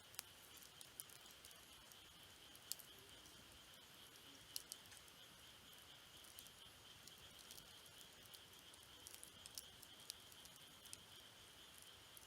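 Campfire wood crackling, with irregular sharp pops scattered through, over a faint steady high insect trill.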